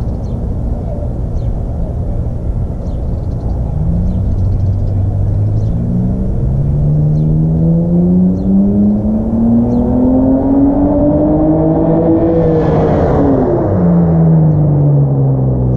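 Exhaust of a 2017 Jeep Cherokee Trailhawk with the muffler deleted and the resonators still on, under acceleration. The engine note rises steadily for several seconds, then drops sharply about three quarters of the way through as the revs fall, and carries on lower.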